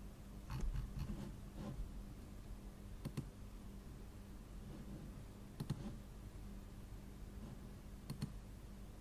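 Computer mouse clicking in sparse pairs of sharp clicks about every two and a half seconds, over a low steady hum.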